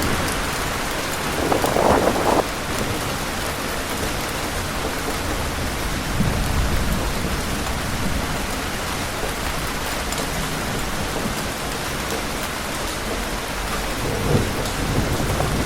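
Heavy rain pouring steadily, with wind gusting in brief louder swells, one about two seconds in and another near the end, and low rumbles underneath.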